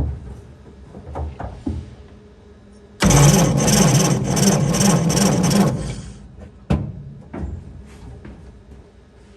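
Starter motor cranking the engine of a 70-year-old truck for about three seconds, with a regular beat, without the engine firing. A few sharp clicks come before and after.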